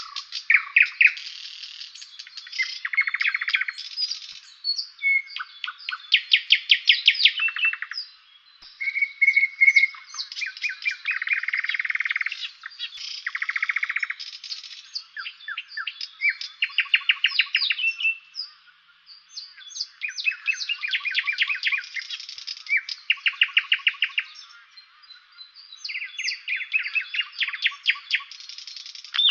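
Songbirds singing in a garden in early summer: repeated song phrases of fast trills and rapid note series, each about one to two seconds long, separated by short pauses.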